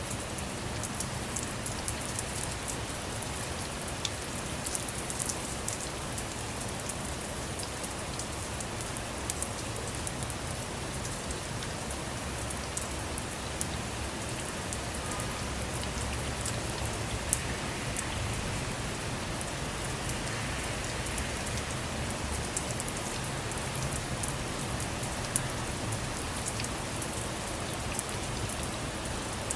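Steady rain falling on a car, a constant hiss with many separate drops striking close by and a low rumble underneath.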